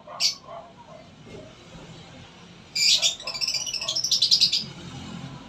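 Small birds chirping: one sharp chirp just after the start, then a fast run of high chirps, about ten a second, lasting about two seconds.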